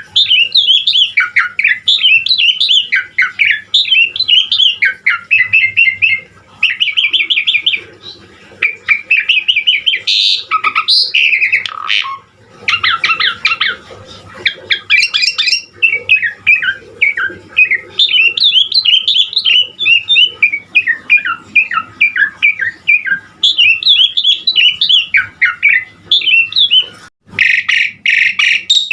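Asian pied starling (jalak suren) singing a long, varied song of rapid chattering and whistled notes mixed with harsh squawks, broken by a few short pauses. Harsher, noisier calls come near the end.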